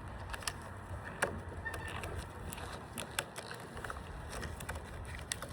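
Rubber bands being stretched and snapped onto a watermelon, heard as scattered sharp snaps and clicks, about a dozen, over a low steady rumble.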